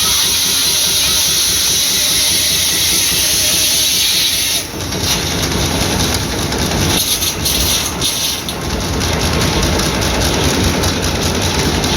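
Circular sawmill at work: a loud hissing noise, typical of the blade running through a log, stops sharply about four and a half seconds in. After that the rapid, even beat of the hot-bulb engines driving the mill comes to the fore.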